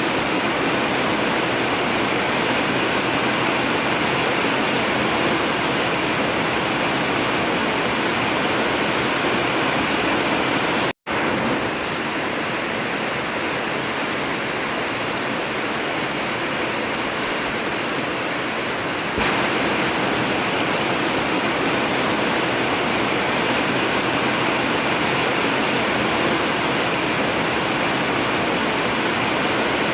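Heavy rain falling steadily on an old tin roof, an even hiss without thunder. The sound cuts out for an instant about a third of the way in, then steps slightly louder later on.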